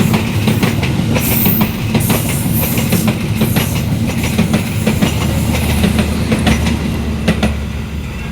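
Train passing close by on the track, its wheels clacking over the rail joints in a quick, uneven run of clicks over a steady low rumble, easing slightly near the end.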